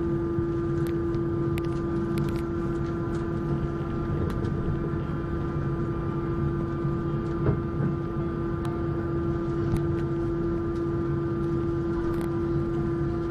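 Airbus A321 passenger cabin noise: a steady hum with several unchanging whining tones, from the airliner's running engines and air systems, holding level throughout with a few faint clicks.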